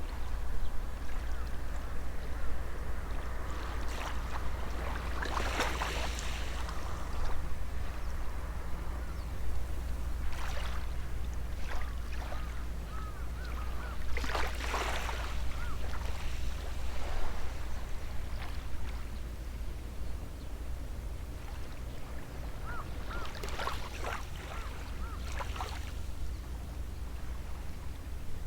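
Small sea waves washing onto the shore every few seconds, each wash a brief fizzing hiss, over a steady low rumble. Near the end a bird gives a quick run of short repeated chirps.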